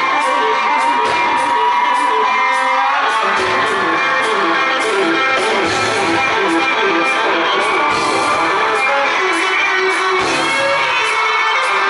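Live rock band playing loud, with electric guitar to the fore over drums: a long note bent up and held for about three seconds, then a quick repeating riff.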